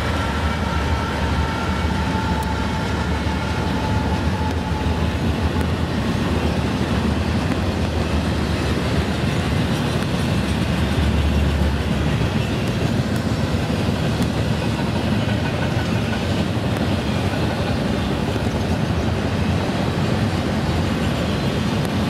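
Norfolk Southern double-stack intermodal freight train passing close by: the last locomotives go by first, with a faint tone fading over the first few seconds, then the steady rumble and clatter of the container cars' wheels on the rails.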